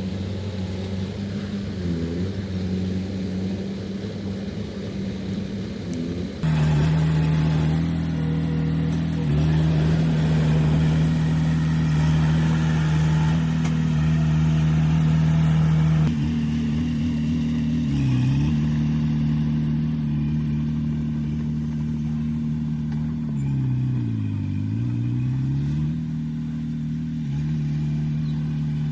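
Heavy diesel engine of construction machinery running steadily under load, louder from about six seconds in to about sixteen seconds in. Its pitch sags briefly twice, near eighteen seconds and again around twenty-four seconds, as the engine is loaded down and recovers.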